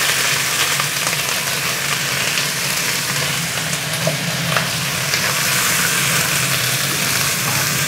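Fresh cabbage leaves sizzling steadily in hot bacon fat and fried garlic in a nonstick wok, with a wooden spatula tossing them near the end. A steady hum from the kitchen's range hood fan runs underneath.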